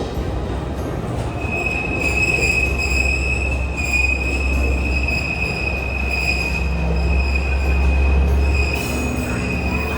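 Narrow-gauge Alishan Forest Railway train's wheels squealing against the rails, a steady high-pitched squeal that starts about a second in and holds, over the low rumble of the running train. This is flange squeal of the kind wheels make on a tight curve.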